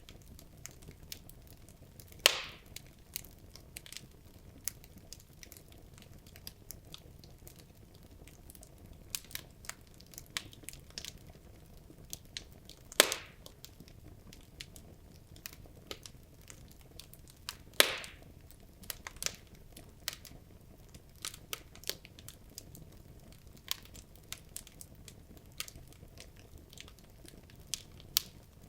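Wood logs burning in a fireplace, crackling with frequent small snaps and three louder pops, at about two, thirteen and eighteen seconds in, over a low steady hiss of the fire.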